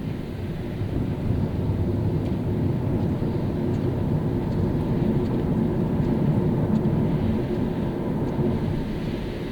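Car driving on a wet road: a steady low rumble of road and engine noise that swells a little through the middle, with a few faint ticks.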